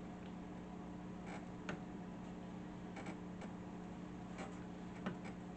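Scattered light clicks and taps from table saw parts being handled during disassembly, about half a dozen, over a faint steady hum.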